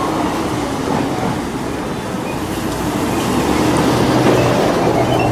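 Steady rumbling vehicle noise with a low, constant hum underneath.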